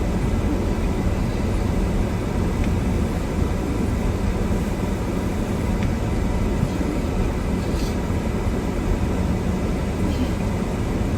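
Steady low rumble inside a car's cabin as it drives slowly through a snowstorm: engine and tyre noise mixed with strong wind against the car.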